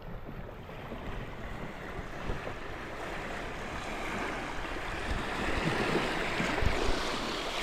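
Rushing river water, a steady hiss that grows louder as the raft nears a rapid.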